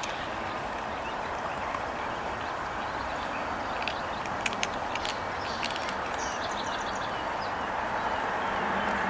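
Steady outdoor traffic noise that swells toward the end as a vehicle draws nearer, with a few faint ticks and a brief run of small high bird chirps about six seconds in.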